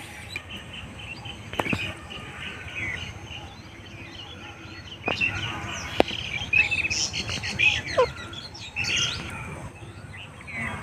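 Birds chirping in short, scattered calls, busiest in the middle, with a few sharp clicks.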